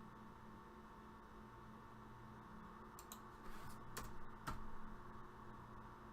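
A few scattered computer keyboard clicks, about three and four-and-a-half seconds in, over a faint steady electrical hum.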